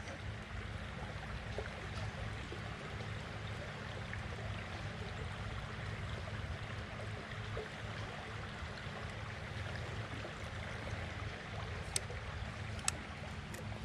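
Creek water running steadily, with two sharp clicks near the end.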